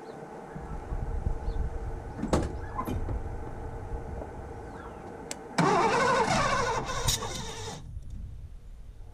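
Ford 302 V8 being cranked and firing unevenly, with a loud stretch starting about five and a half seconds in that cuts off abruptly about two seconds later. The engine fires but will not keep running.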